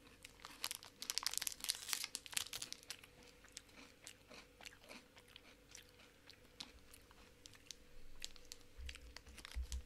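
Close crunching and chewing of a chocolate bar with crispy rice inside. The crunches come thick and fast for the first two seconds or so, then thin out to scattered crunches as the chewing goes on.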